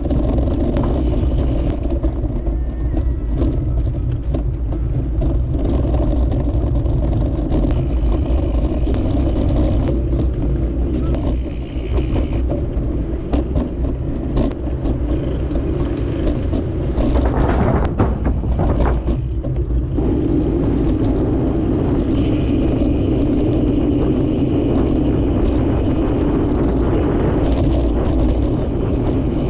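Steady rumble of wind and road noise on a microphone riding along on a moving bicycle, with a brief change in the noise around two-thirds of the way through.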